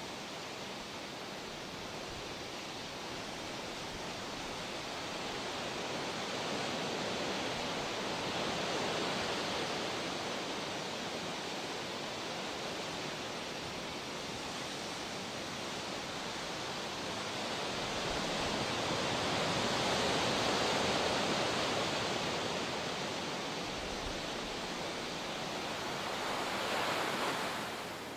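Ocean surf on a rocky coast: a steady wash of breaking waves that swells and eases slowly, loudest about two-thirds of the way through and again just before the end.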